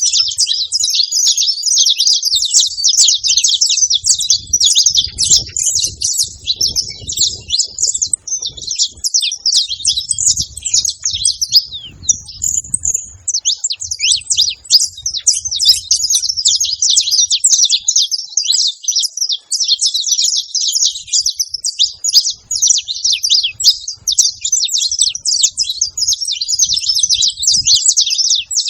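Saffron finches chattering, a dense run of many short, high, overlapping chirps that barely lets up, with a brief lull about midway.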